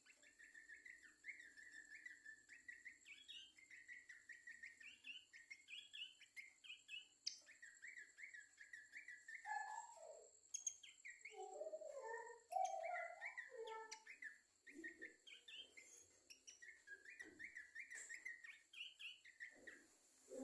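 Babbler of the kind called pelanduk semak in Malay, singing: long runs of quick chirping notes, with a stretch of lower, fuller notes mixed in about halfway through.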